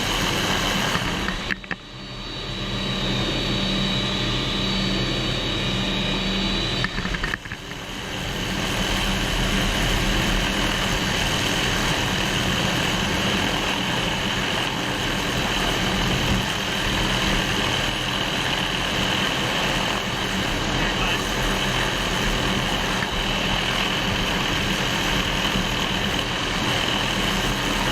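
Helicopter engine and rotor noise heard from inside the cabin, a loud steady drone, dipping briefly twice in the first eight seconds.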